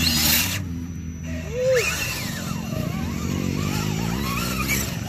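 Small electric RC trucks' motors whining, the pitch rising and falling as the throttle is worked, over a steady low hum.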